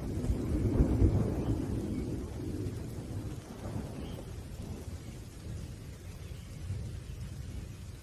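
Low rolling thunder over rain, strongest in the first couple of seconds and fading away.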